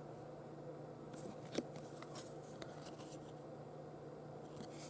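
Baseball trading cards being handled and flipped through, with a few faint short clicks and slides of card against card over a low steady room hum.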